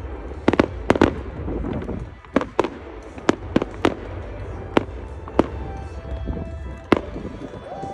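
Aerial fireworks bursting: about a dozen sharp bangs at uneven intervals over a low rumble, with show music playing underneath.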